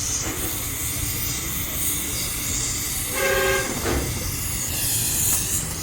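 Steady noisy background with a low rumble and hiss, cut by one short, steady horn blast a little after three seconds in.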